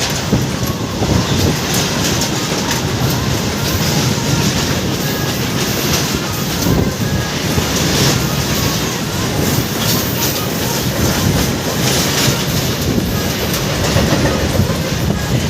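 Surat–Nandurbar MEMU electric train running along the track: a steady, loud rumble with frequent short clicks of the wheels over the rails.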